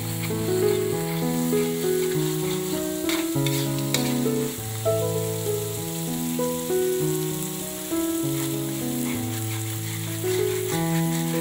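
Ground spice paste sizzling as it sautés in hot oil in a wok, stirred with a spatula, under background music of held notes that change every half second or so.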